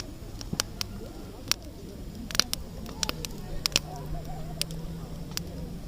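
Wood campfire crackling, with irregular sharp pops and snaps, the loudest about two and a half seconds in.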